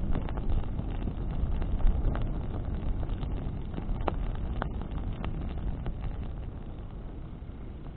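Wood bonfire burning in the wind: a steady low rumble of flame and wind, with a few sharp crackles and pops from the burning branches.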